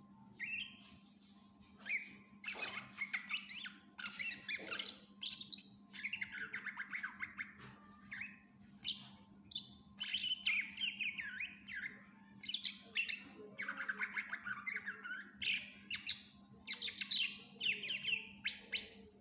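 Greater green leafbird (cucak ijo) singing vigorously: a fast, varied stream of chattering phrases, trills and mimicked calls of other birds, broken by short pauses. A faint steady low hum runs underneath.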